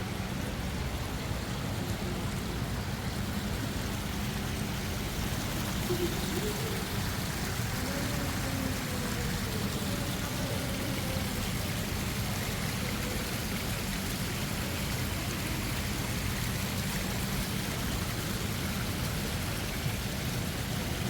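Steady rush of running water from an indoor exhibit's artificial waterfall and stream, an even noise with no breaks.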